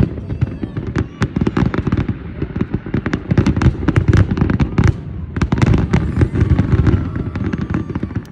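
Fireworks grand finale: a rapid, continuous barrage of booming bursts and crackles that ends abruptly.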